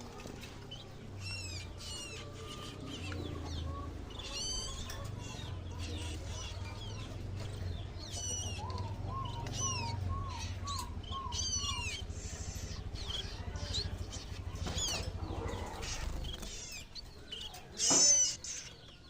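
Hand-reared songbird chicks chirping high and repeatedly, with a quick run of about six lower chirps midway, typical begging calls at feeding time. Near the end comes a brief louder rustle.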